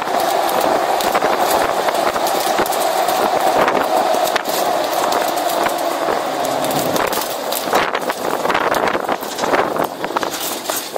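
Open-air 4x4 tour truck driving off-road: a steady engine and drivetrain hum with rattling and knocks from the rough track. About seven seconds in, the hum drops away and the knocks and rattles grow.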